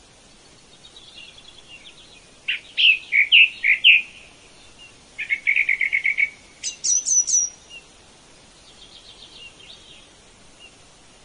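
Birds singing: loud bursts of quick sweeping notes a few seconds in, then a rapid trill and a short run of high falling notes, with fainter chirps before and after over a faint steady background hiss.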